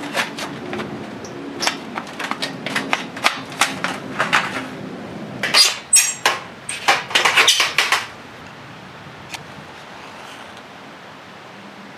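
Irregular sharp knocks and clacks of hard objects, some in quick runs, that stop about eight seconds in, leaving a steady faint hiss.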